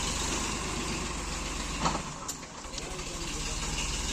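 Heavy diesel engine running, a steady low throb that drops away about two seconds in, with a brief sharp knock just before.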